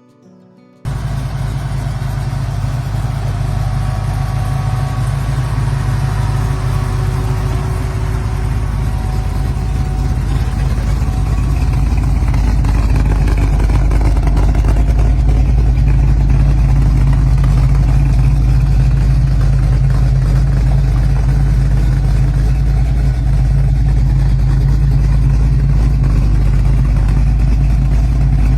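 The 383 stroker small-block V8 of a 1955 Chevrolet 210 Wagon running steadily with a deep, loud rumble. It starts abruptly about a second in and grows a little louder over the first dozen seconds.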